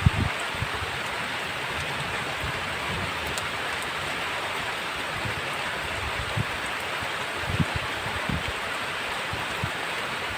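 Heavy rain falling steadily as an even hiss, with a few brief low thuds: one at the start and a small cluster about two-thirds of the way through.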